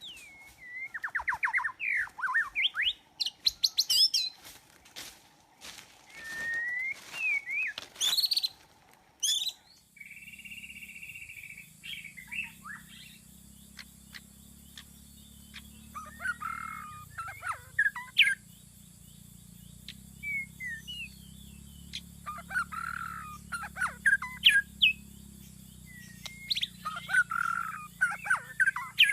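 White-rumped shama singing: varied phrases of whistles, trills and rapid chatter, coming in bursts with short gaps. About ten seconds in the background changes abruptly and a low steady hum runs under the later phrases.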